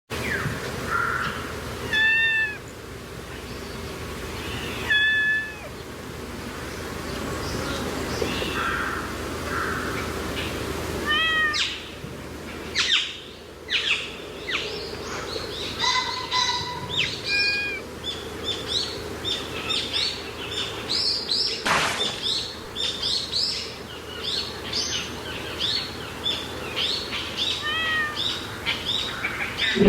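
A cat meowing about five times, spaced several seconds apart, while small birds chirp busily in the background; the chirping grows denser in the second half.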